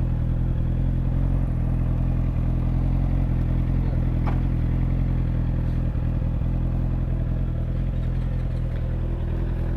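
Suzuki GSX-R 750's inline-four engine idling steadily.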